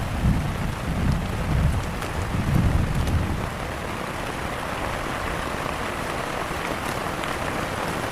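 Heavy rain falling steadily, a dense even hiss, with low gusting rumbles in the first few seconds that then die down.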